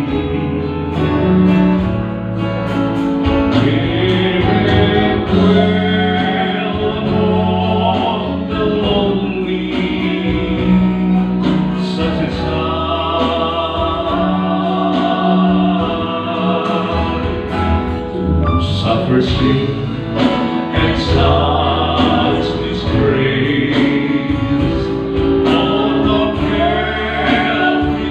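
Music: a song sung with instrumental accompaniment, the voice holding long notes.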